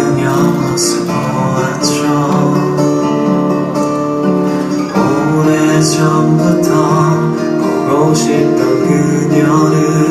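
Music: an acoustic guitar strumming chords in an instrumental passage of a slow pop ballad, with no sung lyrics.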